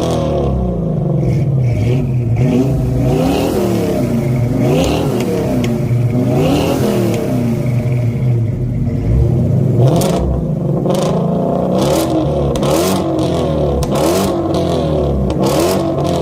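Ford Mustang engines being revved hard while parked: a 1965 Mustang Fastback and a 2017 Shelby GT350. The revs climb and fall again and again, about once every second or two, and turn into quicker, sharper blips in the second half.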